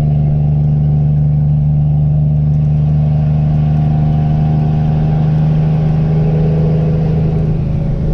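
Cummins M11 inline-six diesel in a loaded International 8100 dump truck pulling steadily up a long grade, heard from inside the cab as a constant drone, easing off slightly near the end.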